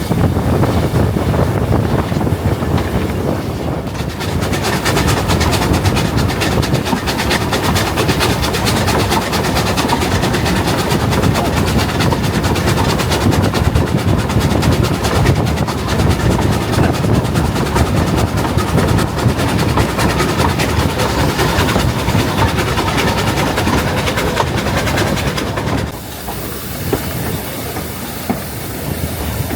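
Narrow-gauge steam train running along the line, with a steady rumble and wheel-on-rail clatter. Near the end the running noise drops and a high hiss comes in.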